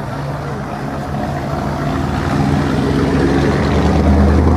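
A car engine running with a low, steady drone that grows louder through the second half.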